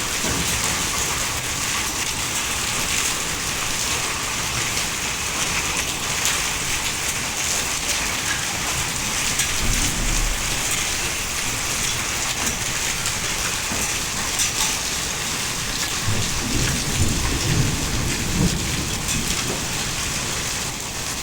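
Hail falling hard and pattering densely on hard surfaces, a steady hiss of fine impacts, with low rumbles about ten seconds in and again near the end.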